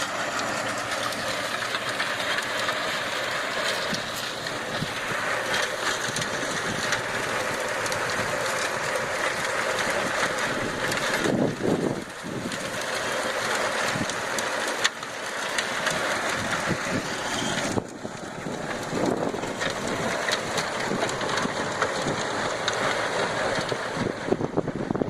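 Sonalika Worldtrac 60 tractor's four-cylinder diesel engine running steadily under load while a rotavator churns the soil; the sound shifts abruptly a few times.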